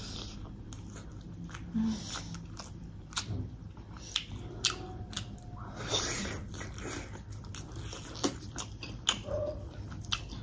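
A person chewing and smacking mouthfuls of food close to the microphone, with scattered small wet clicks of the mouth. One longer, noisier sound comes about six seconds in.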